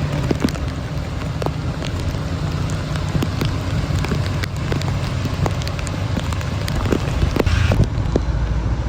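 Rain falling steadily, with many scattered drop hits over a constant low rumble.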